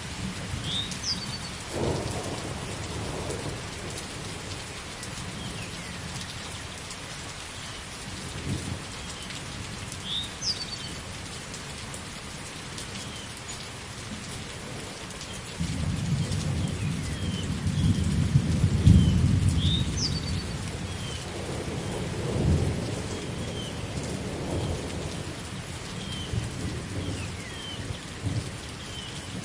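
Steady rain falling with thunder rumbling: short low rumbles a couple of times early on, then a long heavy roll of thunder from about halfway that peaks and fades over several seconds.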